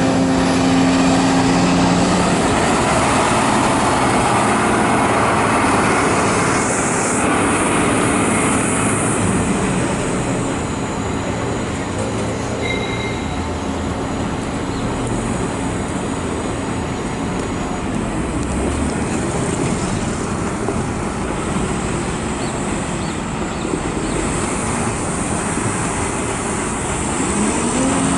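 Large hydraulic excavator working, its diesel engine running under load with steady machine noise as it digs soil and loads a dump truck.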